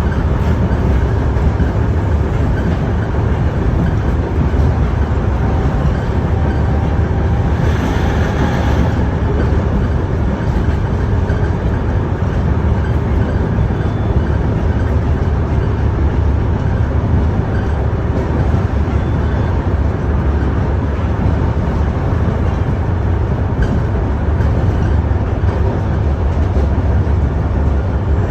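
KTM-31 tram running along the track, heard from on board: a steady low rumble of wheels on the rails and the car's running gear, with a brief brighter noise about eight seconds in.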